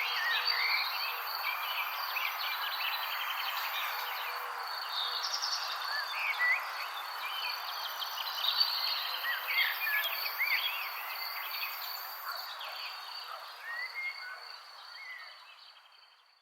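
Birds chirping and whistling in many short calls over a steady insect chorus with a high, continuous trill. The whole soundscape fades out over the last couple of seconds.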